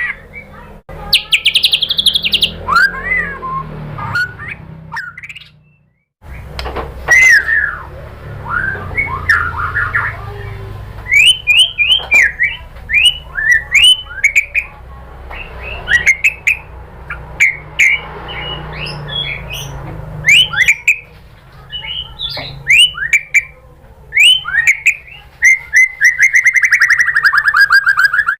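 White-rumped shama singing a fast string of short, sharp whistled notes and chirps in its rapid-fire 'tembakan' song. The song breaks off briefly about six seconds in and ends in a long buzzy trill that falls slightly in pitch. A faint low hum runs underneath.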